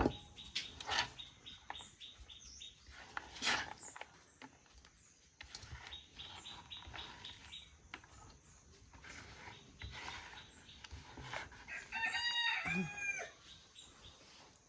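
A rooster crowing in two arched notes about twelve seconds in, over scattered light clicks and scrapes of kitchen utensils being worked in a bowl.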